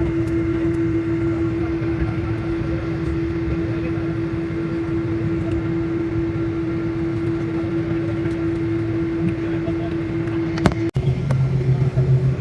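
Steady airliner cabin noise in flight: the constant rush of jet engines and airflow with a steady hum. About eleven seconds in it drops out for an instant and resumes as a similar drone with a lower hum.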